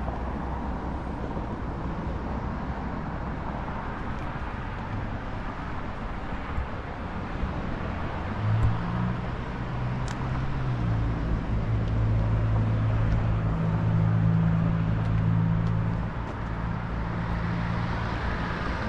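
A motor vehicle's engine running over steady outdoor background noise. Its low hum gets louder about eight seconds in and drops back about sixteen seconds in.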